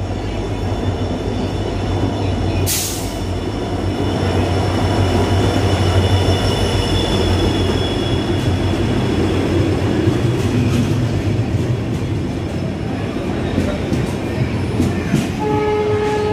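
Express passenger train running through a station without stopping: a steady loud rumble of wheels on rail, with a thin high squeal over the first half. There is a short burst of hiss about three seconds in, and a few sharp clicks of wheels over rail joints near the end.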